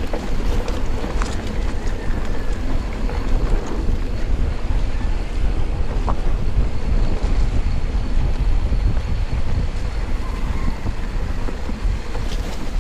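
Wind buffeting the microphone of a mountain biker's action camera while riding, over a steady rumble of tyres on the trail, with a few light clicks from the bike.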